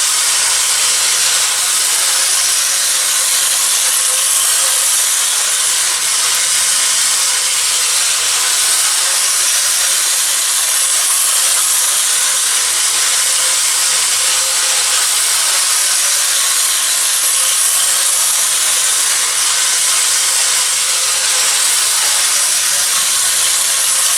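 Vintage French tinplate toy train running round its track, a steady hissing whir from its wheels and mechanism on the tin rails.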